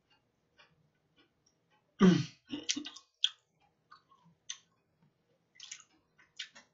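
Close-miked eating sounds: chewing with scattered wet mouth clicks and smacks. About two seconds in there is a short, louder voiced sound from the eater, followed by a quick run of clicks.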